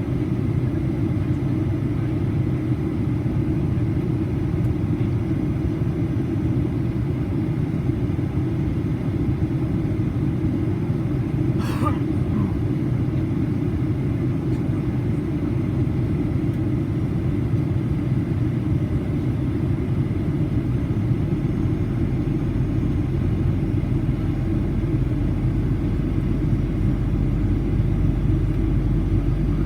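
Steady cabin rumble of a Boeing 737-800 in flight, heard from inside the passenger cabin: the CFM56-7B turbofan engines and the airflow over the fuselage make a deep, even roar. A single short click sounds about twelve seconds in, and the lowest rumble grows a little stronger near the end.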